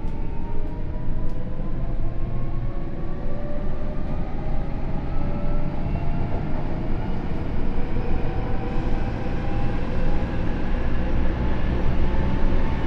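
Tokyo Metro 07 series train heard from inside the car: the Hitachi IGBT inverter and traction motors whine in several tones that climb steadily in pitch as the train accelerates, over the rumble of the wheels on the rails.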